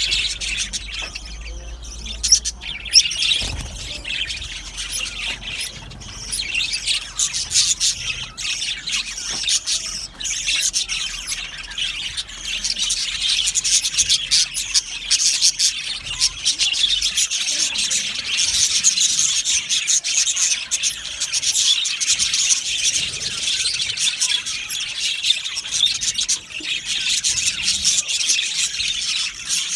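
A flock of budgerigars chattering and warbling nonstop, many birds at once. There are a couple of sharp clicks about two to three seconds in.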